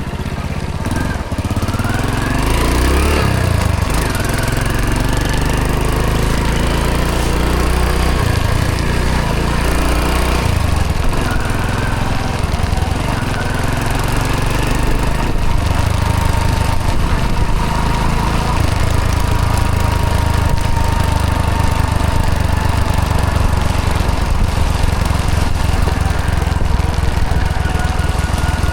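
Hero Honda CD100 DLX motorcycle's small single-cylinder four-stroke engine running under way, its revs shifting up and down a few times.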